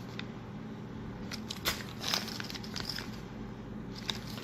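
Crinkling plastic packaging and small scattered clicks as packs of model railroad wheel sets are handled, over a faint steady hum.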